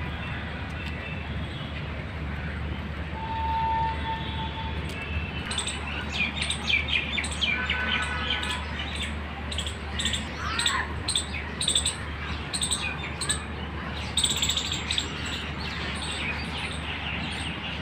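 Several birds chirping and calling in short, repeated high notes, growing busy from about five seconds in, over a steady low background rumble.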